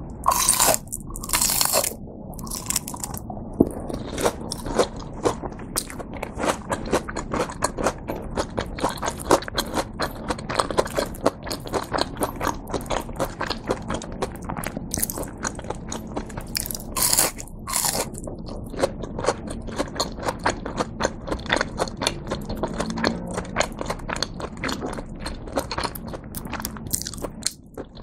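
Close-miked bites into a crisp-fried cheese pork cutlet (cheese tonkatsu): loud crunches of the breaded crust, then steady crunchy chewing. Another loud crunchy bite comes about 17 seconds in, and one more near the end.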